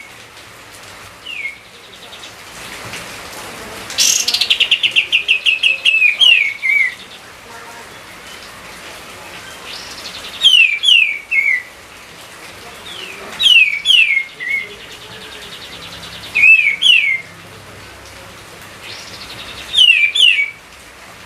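A songbird repeating a short phrase of two or three quick, falling whistled notes every few seconds, with a fast rattling trill leading into the phrase about four seconds in. A steady hiss lies underneath.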